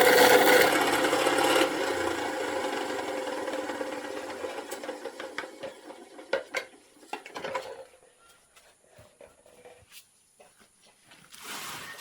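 A machine's running noise fades away over several seconds, followed by scattered light knocks and clicks.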